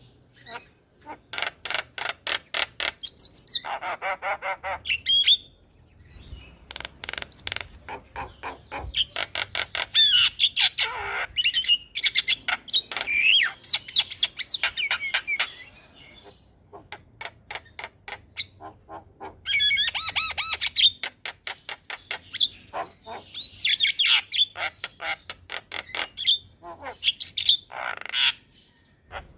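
Javan myna (jalak kebo) singing: long runs of rapid, harsh chattering notes, several a second, mixed with squawks and a few rising whistled notes, broken by a few short pauses.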